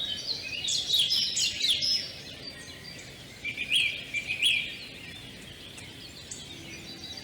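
Small birds singing and chirping, many quick high notes and trills, busiest in the first two seconds and again about four seconds in.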